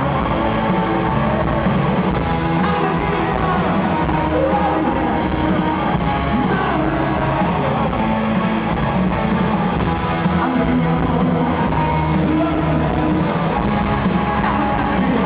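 Rock band playing live: singing over electric guitar.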